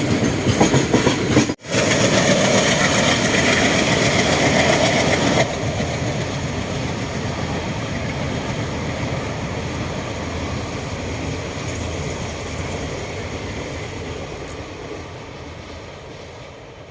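A train running on the Konkan Railway line: loud rolling noise from the train, with a brief gap about a second and a half in and a drop in level after about five seconds. It then fades steadily as the train moves away.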